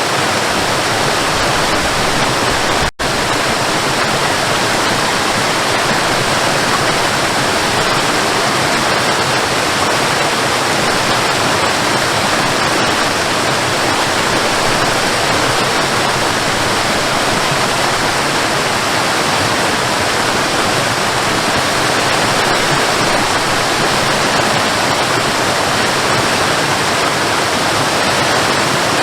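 Waterfall: a steady, even rush of falling water. The sound cuts out for an instant about three seconds in, then carries on unchanged.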